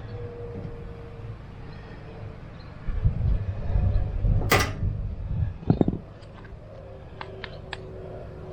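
Handling noises from work on the unit: a low rumbling shuffle for about three seconds with one sharp click in the middle, then a few light ticks.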